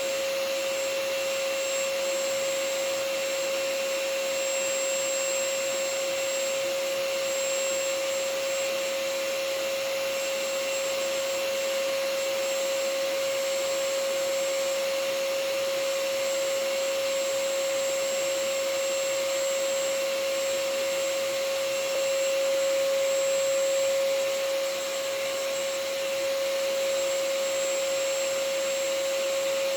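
Vacuum cleaner running steadily, a constant rushing hiss with a steady whine from the motor.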